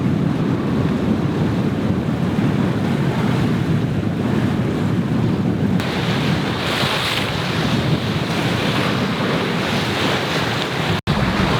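Wind buffeting the microphone over the steady rush of water along the hull of a sailing yacht under way. About six seconds in the hiss turns brighter, and it cuts out briefly near the end.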